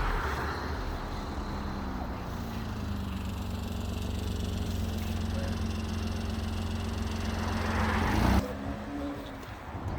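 Electric motor of a child's ride-on toy car running with a steady hum that drops slightly in pitch under load, then cuts off abruptly about eight seconds in as the pedal is released.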